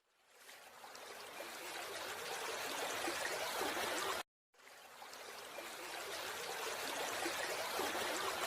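Running, trickling water in two stretches, each fading in gradually; the first cuts off sharply about four seconds in, and the second begins after a brief gap.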